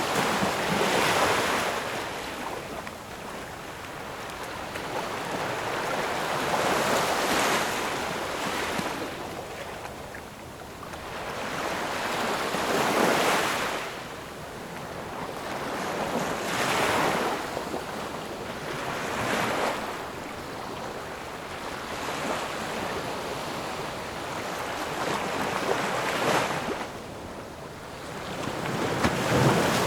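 Ocean waves breaking and washing up the shore, swelling and falling away every few seconds.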